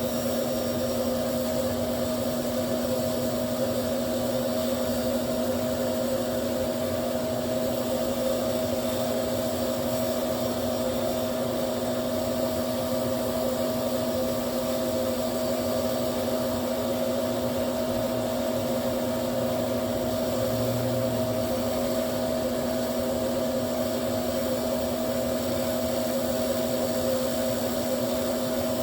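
Electric blower running steadily at full speed, a constant motor hum with a rush of air as it forces air through a forge full of glowing coffee-ground charcoal.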